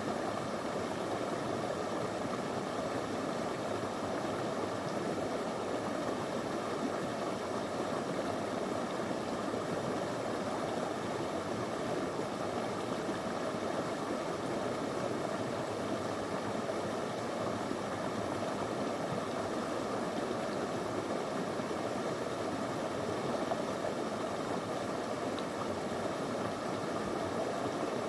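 Small river flowing over stones, a steady, unbroken rush of water.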